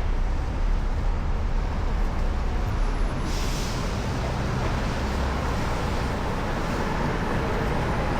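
Steady traffic rumble mixed with wind noise on the microphone while cycling along a road. A short hiss comes in about three seconds in.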